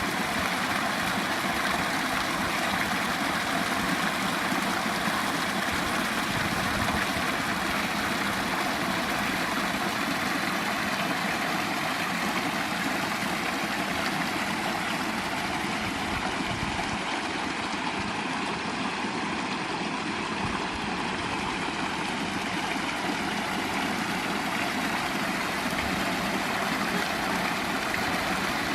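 Water of a small rivulet spilling over a low fall and running over pebbles: a steady splashing gurgle.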